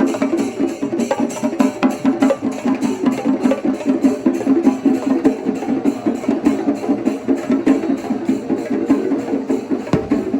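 Kerala temple percussion ensemble (chenda melam): many drums beaten in a fast, dense, steady rhythm, with cymbals keeping time.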